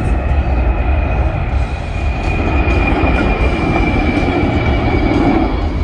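Boeing C-17 Globemaster III jet transport flying past low: a loud, steady jet roar with a deep rumble and a high whine that slowly falls in pitch.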